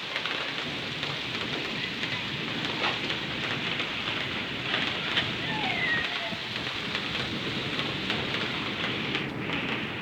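Steady rain falling and pattering on surfaces, a dense even hiss with fine drop ticks. A few faint short chirps about halfway through.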